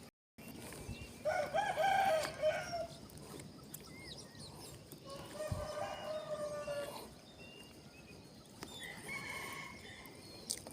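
Roosters crowing, three long crows in turn, the first the loudest and the last the faintest.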